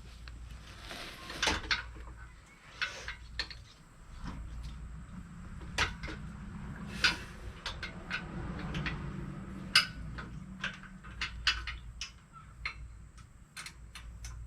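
Metal hand tools clinking and knocking against engine brackets and bolts: irregular sharp metallic clicks and clanks, with a faint low hum in the middle.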